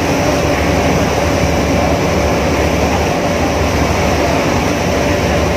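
Ferry engine running steadily on board: an unbroken low drone under a steady rushing noise, with a faint constant hum.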